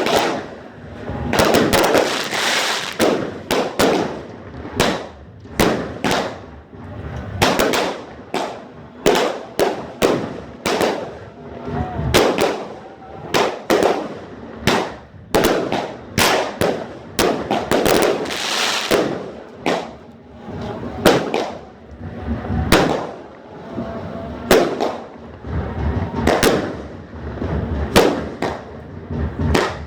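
Fireworks going off: a long, irregular run of sharp bangs, about one or two a second, with bursts of dense crackling about two seconds in and again around eighteen seconds.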